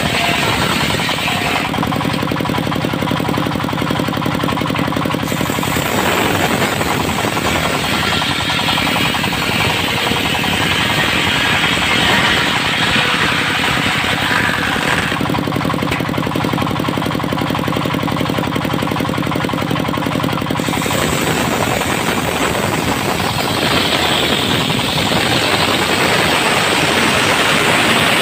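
A machine running loudly and steadily with a rapid rattle. A humming tone stands out in it twice, for several seconds each time.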